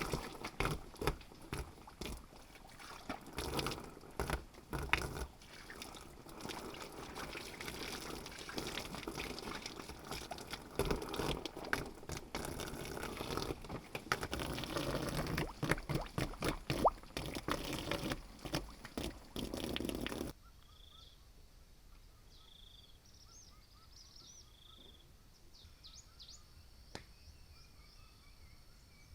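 Water pouring and splashing, with many irregular splashes, for about twenty seconds. Then it cuts off abruptly, leaving faint bird chirps.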